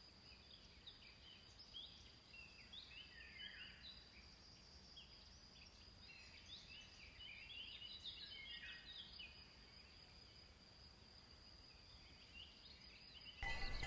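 Faint birdsong of many short chirps and twittering calls, over a steady high-pitched whine. A louder sound cuts in suddenly just before the end.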